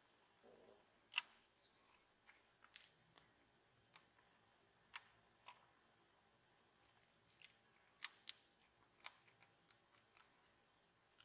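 Scattered small, sharp clicks and snips of hand tools and parts being handled at a modelling bench, the loudest about a second in and a quick cluster near the end.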